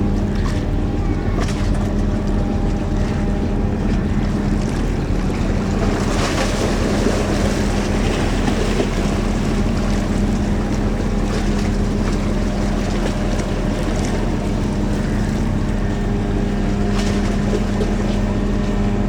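A boat's engine running at a steady drone, with rushing water and wind noise over it that swells for a few seconds in the middle.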